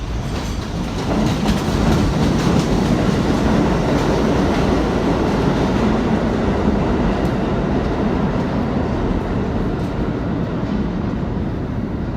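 New York City subway train running along the track, a loud steady rumble with wheels clacking over the rail joints, easing slightly near the end.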